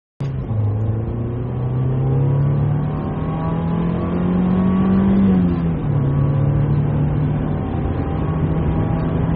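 A convertible car running with a steady low hum; its pitch rises a little about three seconds in and drops back a couple of seconds later.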